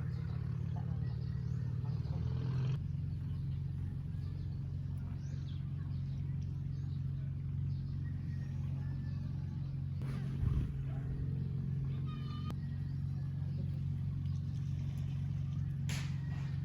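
A steady low engine hum, with a short low thump about ten seconds in and a few faint short high calls above it.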